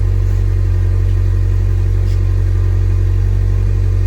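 2019 Corolla Hatchback's four-cylinder engine idling steadily through a newly fitted EOS aftermarket exhaust, with a deep note.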